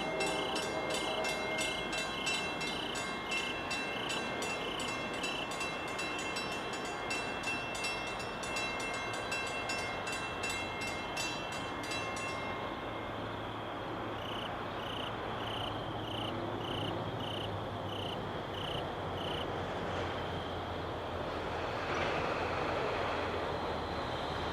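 NJ Transit commuter train moving at the station, a steady rumble with high squealing tones for the first half. A bell rings about twice a second near the start and again in the middle, and a low steady hum comes in about halfway through.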